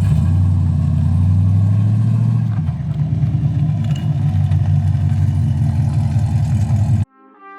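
Muscle-car V8 engine running steadily, its note dropping a little about two and a half seconds in; the sound cuts off suddenly near the end.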